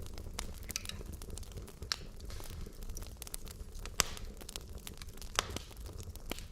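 Wood logs burning in a fireplace: a steady low rumble of the flames with irregular crackles and snaps, the sharpest pop about four seconds in.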